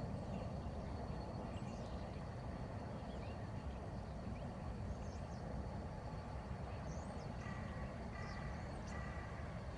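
Steady low rumbling background noise with faint bird chirps. Near the end come three short beeps, each sounding two tones together.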